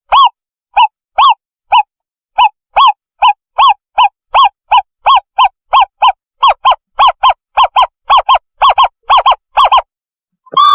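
Owlet lure call played back: a series of short, clear, arched notes that speed up from about two a second to about four or five a second, then stop just before the end.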